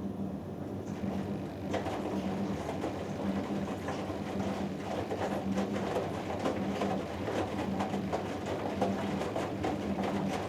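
Hoover Dynamic Next front-loading washing machine in the wash phase of a cotton 90 °C cycle: the drum turning, laundry and water sloshing, with a low motor hum that pulses on and off.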